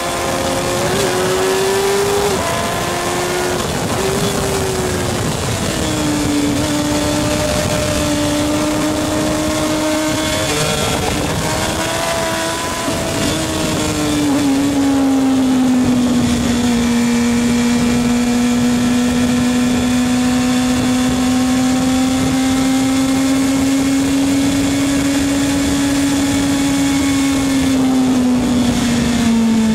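Racing motorcycle engines running at sustained high revs, one steady note that slowly rises and falls in pitch, dropping lower about halfway through and again near the end.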